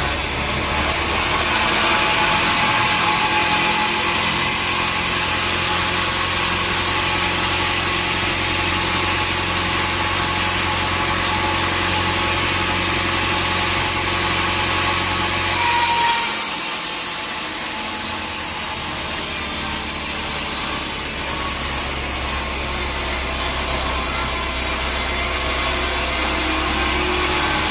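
Sawmill saw running through a teak log, with a steady machine hum under the rasping noise of the cut. About halfway through the sound changes abruptly: a brief louder burst, then the low hum drops away for a couple of seconds before building back.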